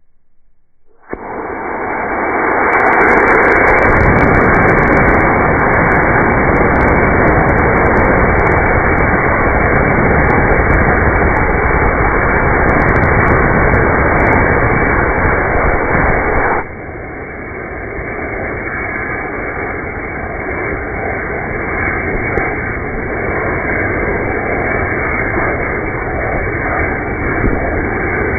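F15-0 black-powder model rocket motor firing on a test stand, its sound slowed down into a loud, deep rush of noise that starts suddenly about a second in. The level drops about two-thirds of the way through, and the sound stops abruptly near the end.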